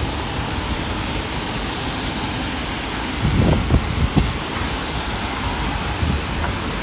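Steady rain and wind from a tropical storm, with a few gusts buffeting the microphone about halfway through.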